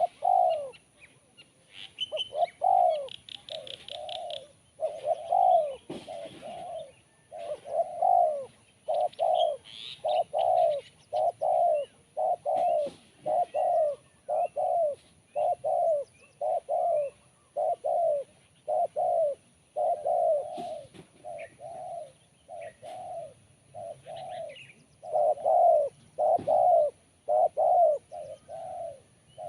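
Spotted dove (tekukur) cooing over and over, a long run of short coos about one a second. Higher small-bird chirps come in a few times, notably a few seconds in and again about ten seconds in.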